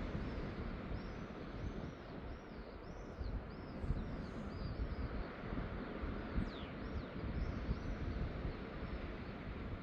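Birds chirping in a run of short, high, rising-and-falling notes, with one high call sliding down in pitch just past the middle, over a low, fluctuating outdoor rumble.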